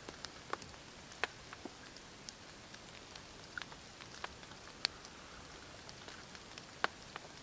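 Steady rain with irregular sharp ticks of single drops landing, three of them louder than the rest.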